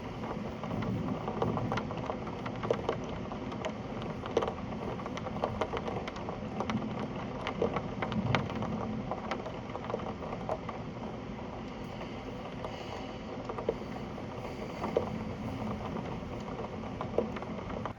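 Steady rain falling, with heavier drops landing as sharp, irregular taps.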